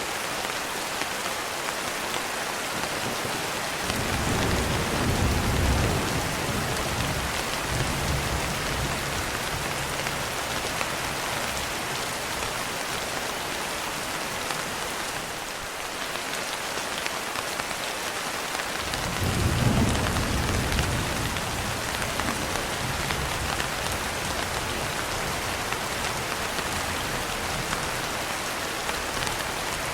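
Steady rain with two rolls of thunder, one starting about four seconds in and another about nineteen seconds in, each rumbling for several seconds.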